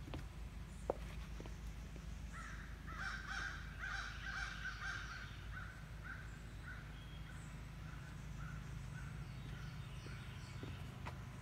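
A bird calling outdoors: a rapid series of short calls begins about two seconds in, then thins out and fades toward the end. A single sharp tap sounds about a second in, over a steady low rumble.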